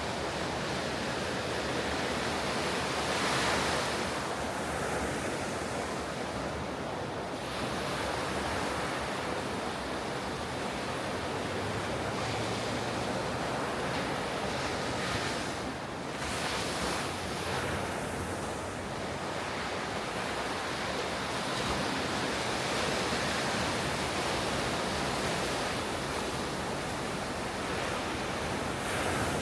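Ocean surf: waves breaking and washing up the beach in a steady roar that swells with each set, about four seconds in and again around the middle. Some wind noise on the microphone.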